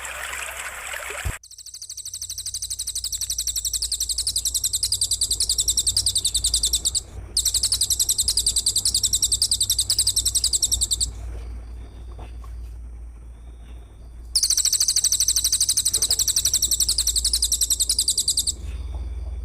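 Trickling water that cuts off abruptly about a second in, followed by a loud, very high, rapidly pulsing buzzy trill from a looped bird-and-insect training recording. The trill comes in long stretches, with a brief break and a pause of about three seconds.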